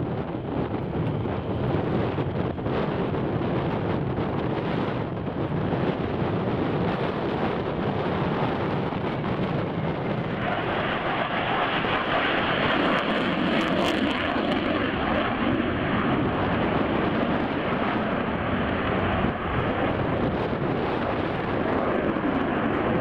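A fixed-wing aircraft's engine running steadily, growing brighter and louder about ten seconds in.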